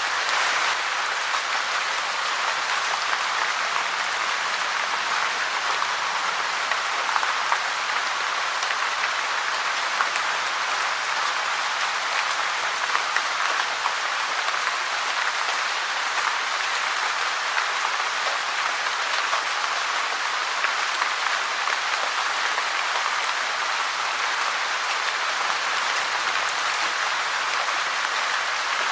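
Steady rain falling, an even hiss with a dense patter of drops, without a break or change.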